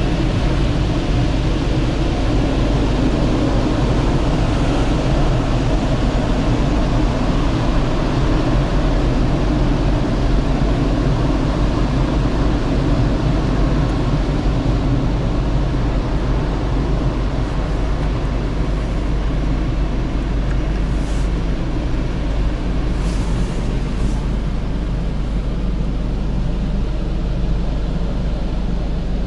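Automatic car wash machinery running: a loud, steady wash noise with a deep rumble underneath.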